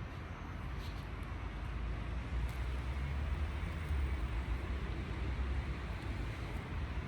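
Outdoor background noise: a steady low rumble that swells for a few seconds in the middle, over a faint hiss.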